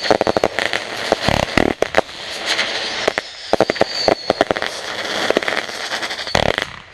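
Backyard consumer fireworks going off: dense rapid crackling and popping, with a couple of heavier bangs, about a second and a half in and near the end, and a faint high whistle now and then.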